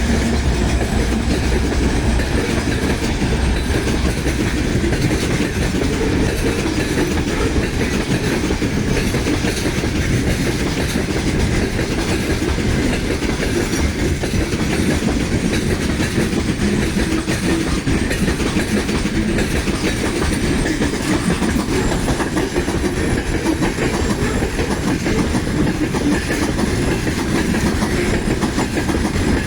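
Freight train wagons rolling steadily past on the rails, wheels clicking over rail joints.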